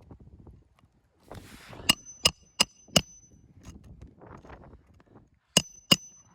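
Hammer driving roofing nails into a shingle roof: four quick strikes with a metallic ring about two seconds in, then two more near the end.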